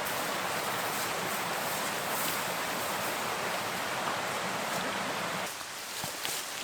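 Steady rush of running water, a creek or small falls, even and continuous; about five and a half seconds in it drops to a quieter, thinner water sound with a few light ticks.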